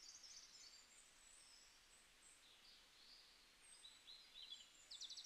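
Near silence, with faint high bird chirps and short trills in the background, clearest at the start and near the end.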